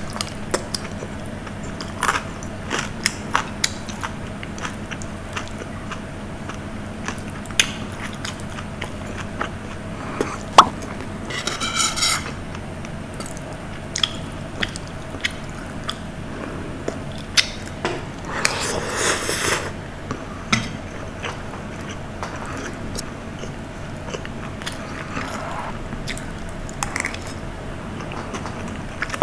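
A person eating: biting and chewing food with scattered small clicks of mouth and utensil sounds, and two brief swishes about twelve and nineteen seconds in. A faint steady hum runs underneath.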